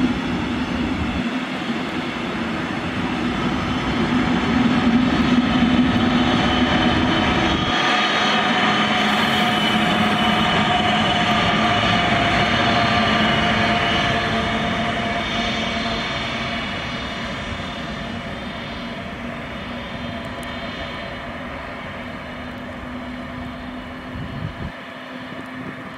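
A train running past with a whining drone of several steady tones over a rumble. It builds to its loudest about five seconds in, holds, then slowly fades away.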